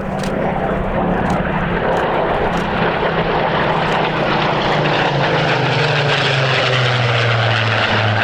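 Propeller aircraft of a Supermarine Spitfire formation running their piston engines in a steady drone, the pitch falling slowly throughout as they pass and draw away.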